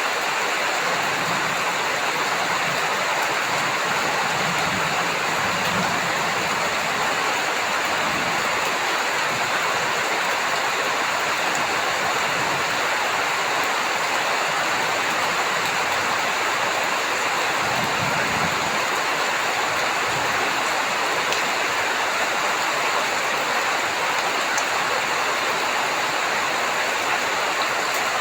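Heavy rain falling steadily: an even, dense hiss of many drops, with faint low rumbles a few seconds in and again about two-thirds through.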